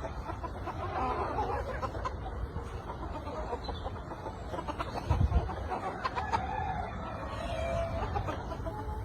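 Chickens clucking, a run of short calls with a longer drawn-out call near the end. There is a low thump about five seconds in.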